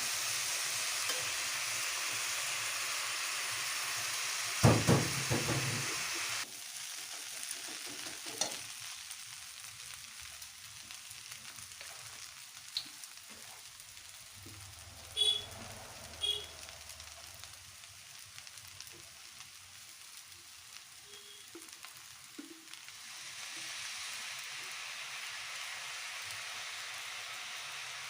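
Food sizzling as it fries in a pan, with a few loud knocks of a utensil against the pan about five seconds in. The sizzle drops much quieter about a second later and grows again near the end.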